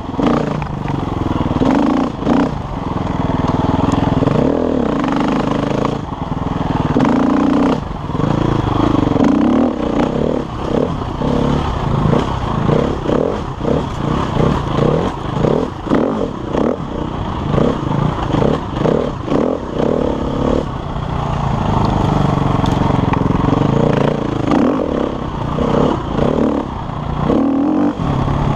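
KTM enduro motorcycle engine ridden on a rough single-track trail, revs rising and falling as the throttle is worked. For a stretch in the middle the throttle goes on and off in quick pulses, about twice a second, with clatter from the bike over the ground.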